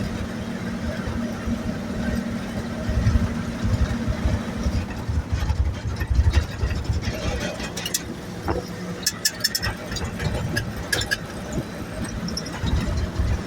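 1963 Chevrolet dump truck's engine running as it drives, a steady drone with low rumbling. Sharp rattles and knocks come through about two-thirds of the way in.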